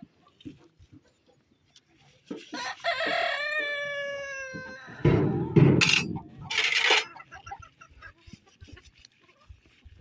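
A rooster crows once, a long call of about two and a half seconds. Right after it come a few loud rustles and knocks.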